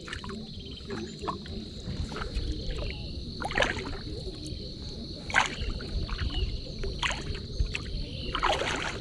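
Paddle strokes splashing and dipping in the water from a small boat, coming about every second and a half in the second half.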